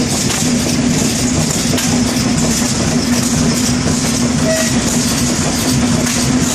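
Large stationary engines running steadily: a rapid low pulsing with a steady hum over it.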